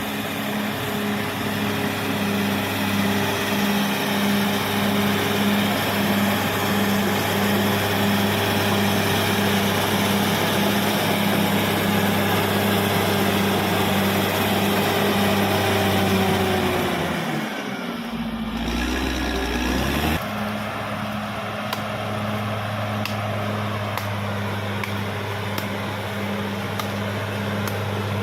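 Caterpillar D6R XL bulldozer's diesel engine running steadily with a low throb. About two-thirds of the way in, its pitch sags and then climbs back, as if the engine is briefly pulled down under load.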